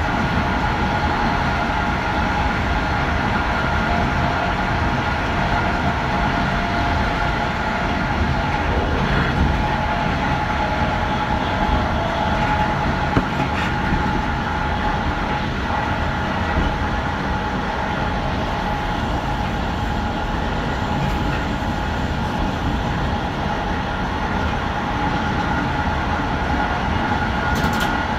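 Passenger train running steadily along the rails, heard from on board: a continuous rumble with a steady whine over it and occasional clicks from the wheels on the track.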